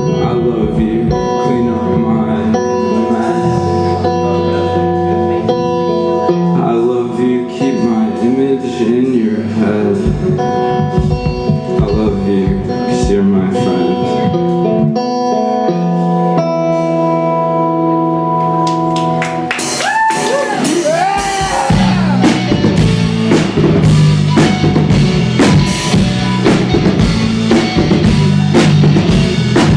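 A rock band playing live. Guitars hold sustained chords with a wavering lead line, then about two-thirds of the way through the full band comes in hard, with the drum kit keeping a steady beat.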